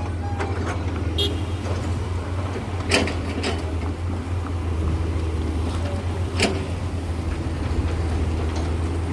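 Heavy diesel machinery running steadily with a deep drone, and a few sharp knocks about three, three and a half, and six and a half seconds in.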